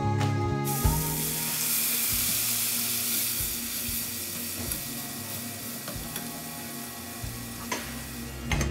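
Vegetables in a spiced tomato-onion base sizzling in a hot pan as water is stirred in with a spatula; the sizzle cuts in sharply about a second in and slowly dies down.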